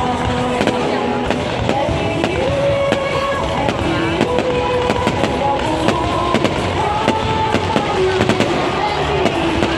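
Fireworks going off in a dense barrage: rapid, irregular bangs and cracks several times a second throughout.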